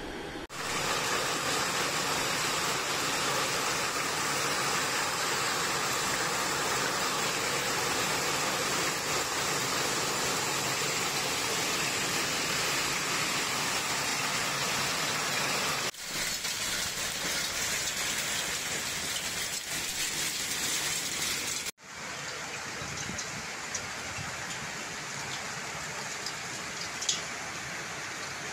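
Torrential storm rain pouring down, a dense steady hiss. The sound breaks off abruptly and resumes twice, about 16 and 22 seconds in, and is quieter after the second break, with a few faint ticks.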